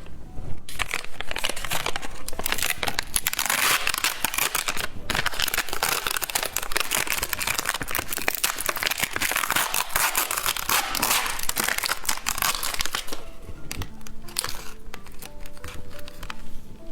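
Candy packaging crinkling and tearing as it is handled and opened, a dense crackle lasting about thirteen seconds. Near the end the crackle stops and light background music with steady tones is left.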